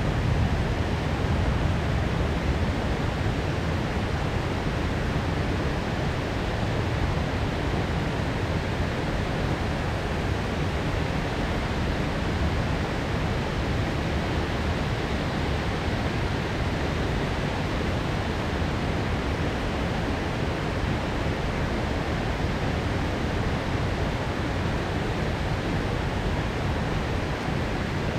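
Heavy downpour of rain: a steady, even hiss of rainfall with no distinct thunderclap.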